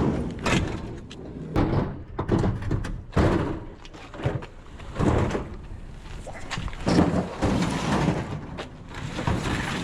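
A series of irregular bangs, thuds and scrapes, a dozen or so knocks spread across the stretch, as heavy junk is moved and set down.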